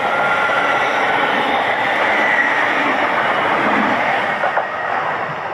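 A train running past on the main line: a loud, steady rush of wheel and rail noise, with a couple of brief knocks near the end as the sound begins to fade.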